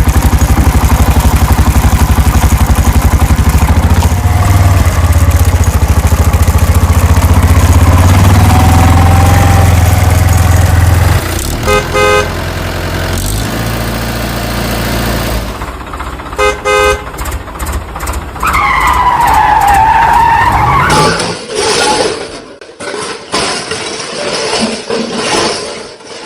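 Cartoon vehicle sound effects: a loud, steady motor-vehicle engine sound runs for about the first fifteen seconds, with two short horn honks about twelve and sixteen seconds in. Later comes a curved, gliding pitched tone, then broken noise.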